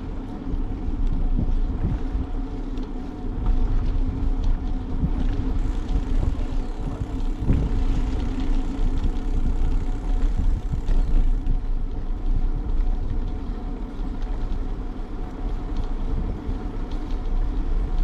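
Steady rumble and rattle of a bicycle being ridden, with a constant low hum and many scattered ticks and knocks.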